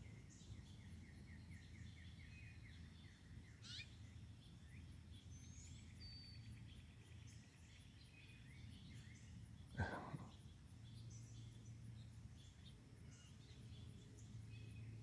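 Faint songbirds chirping and calling around a seed feeder, including a trill of rapid repeated notes in the first few seconds, over a steady low hum. About ten seconds in comes one louder, short sound that slides down in pitch.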